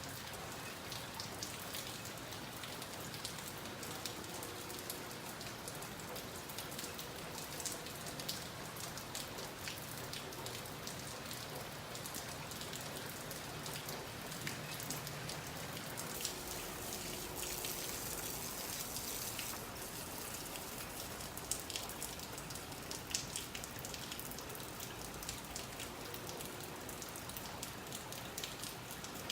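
Rain falling: a steady patter of many small drops, a little heavier for a couple of seconds past the middle.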